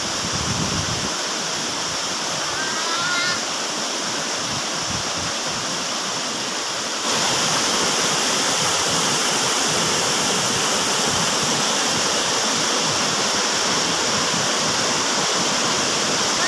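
Waterfall rushing, a steady roar of falling water that gets a step louder about seven seconds in.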